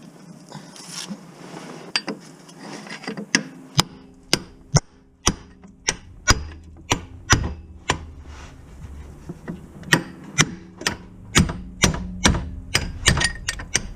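Hammer blows on metal, starting about three seconds in and coming about two a second, with a short pause just past halfway.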